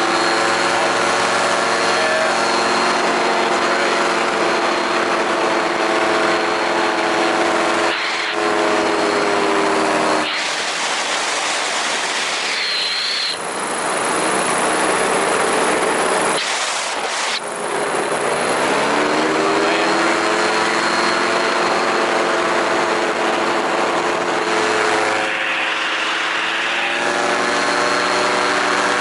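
Small remote-controlled aircraft's electric motors and propellers whining steadily, the pitch sagging about ten seconds in and climbing back a few seconds later, with brief gusts of wind noise.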